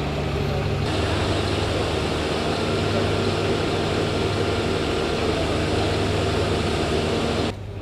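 A heavy engine running steadily, its low note shifting about a second in; the sound cuts off abruptly near the end.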